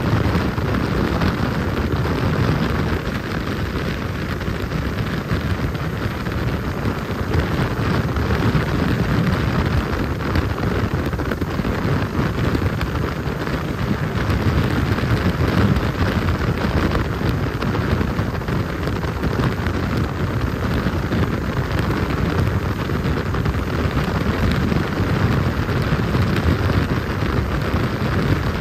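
Jet boat under way: a loud, steady rush of engine and water noise without a break.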